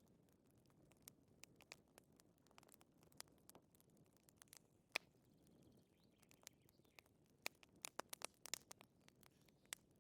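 Faint wood fire crackling in a fireplace: irregular sharp pops and snaps, thickest near the end, over a soft low rumble of the flames.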